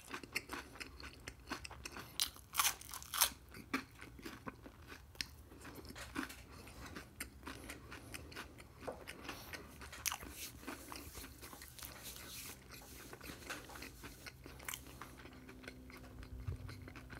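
Close-miked chewing of a crisp, flaky cream-filled pastry: sharp crackly crunches, loudest a few seconds in, thinning out to softer chewing towards the end.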